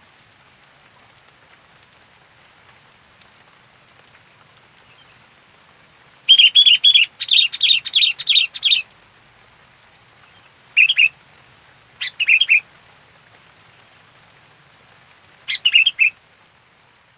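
Sooty-headed bulbul (kutilang) singing in bouts of quick, bubbly repeated notes: a longer run a third of the way in, then three short phrases spaced a few seconds apart, with faint hiss between.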